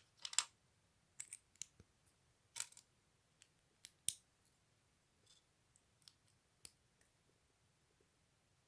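Small plastic LEGO pieces being handled and pressed together: a scatter of sharp clicks and short rattles, the loudest a brief rustle just after the start.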